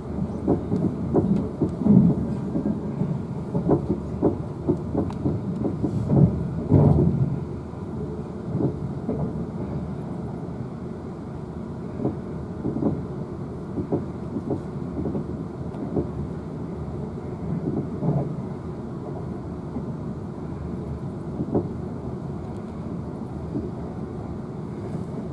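Interior running noise of a Siemens Desiro electric multiple unit (Class 450/444) at speed: a steady low rumble with the wheels knocking and clattering over the track. The clatter is busy and loud for about the first seven seconds, then settles to scattered knocks over a quieter rumble.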